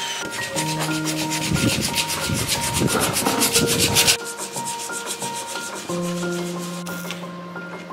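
A rapid, rasping scrape like sanding or abrasive rubbing, in fast repeated strokes, stops abruptly about four seconds in. Background music plays throughout.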